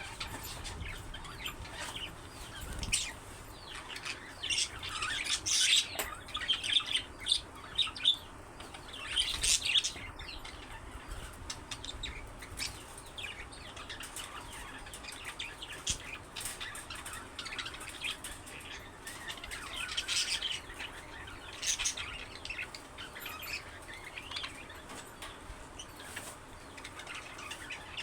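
Budgerigars chirping and warbling in irregular bursts of quick, high chirps, busier in stretches.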